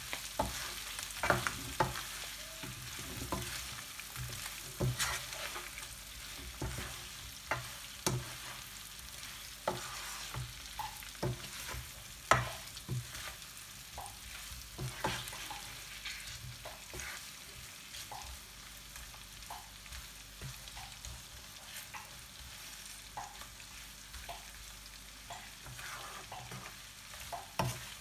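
Beef pieces sizzling in butter and oil in a nonstick frying pan, stirred with a plastic slotted spoon that knocks and scrapes irregularly against the pan.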